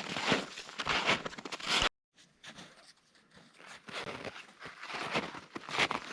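Footsteps crunching through snow, a step about every three-quarters of a second. The sound cuts off abruptly just before two seconds in, then fainter steps start and grow louder.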